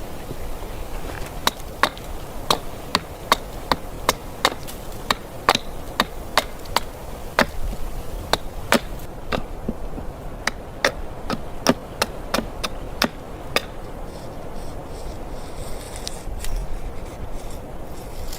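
A run of sharp, separate knocks, roughly two a second, that stops about thirteen seconds in, over a steady low rush.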